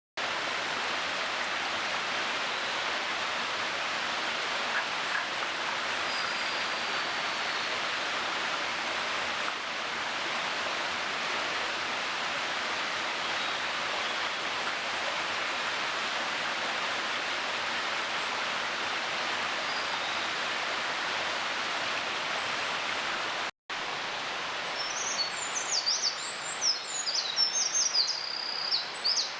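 Steady rushing of a stream. Near the end, a Eurasian wren sings a fast run of high, rapid trilling notes over the water.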